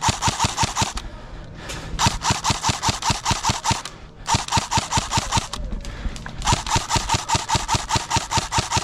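Electric airsoft rifle firing on full auto in four long bursts, a rapid even rattle of shots with the gearbox whine under each burst.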